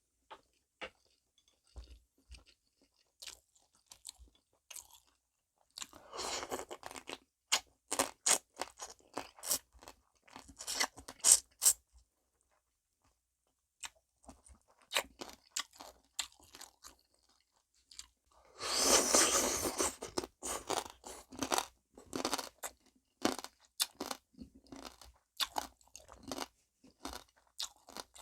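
Close-up crunching and chewing of soy-marinated rock crab shells in clusters of sharp crunches with short pauses. There is a longer, noisier stretch of eating about two-thirds of the way through.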